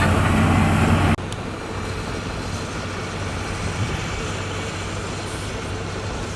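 Diesel engine of heavy road-building machinery (motor grader or roller compactor) running steadily. About a second in, the sound cuts suddenly from a loud, even engine note to a quieter, rougher engine sound.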